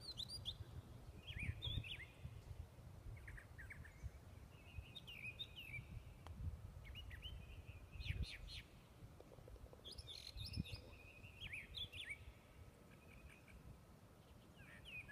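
Songbirds chirping in short bursts of quick, rising and falling notes every second or two, over a low, uneven outdoor rumble.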